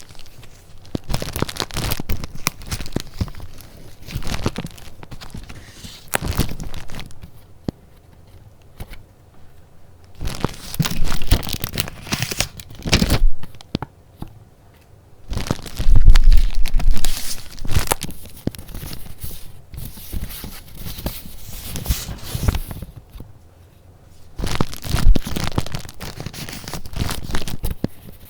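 Paper being handled: sheets and paper goods rustling and crinkling in irregular bursts, with a heavy thump just after the middle.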